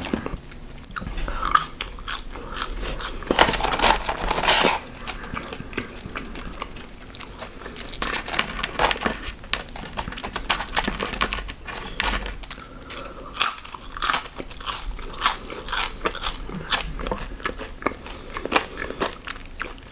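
A person biting and chewing crunchy fried fast food close to the microphone, with many small crunches and crackles throughout.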